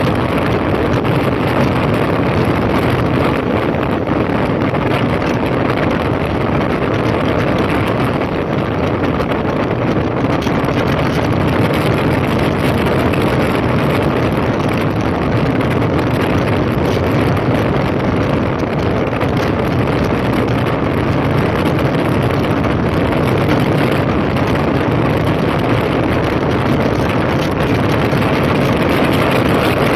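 2005 Honda CB1300's inline-four engine running steadily as the motorcycle rides along, mixed with wind rushing over the microphone.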